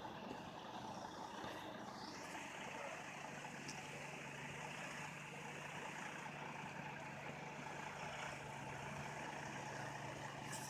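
A vehicle engine running steadily at a distance, its low hum becoming steadier a few seconds in.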